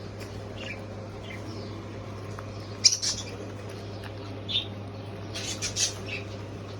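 Baby Hagoromo budgerigar giving short, high squawking calls at irregular intervals: a loud one about three seconds in and a quick run of calls near the end, over a steady low hum.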